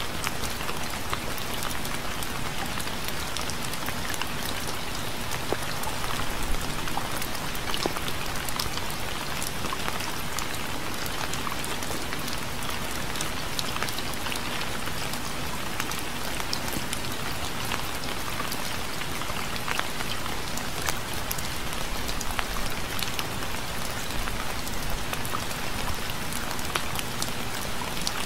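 Steady rain falling on a surface, with a continuous hiss and many individual drops ticking through it.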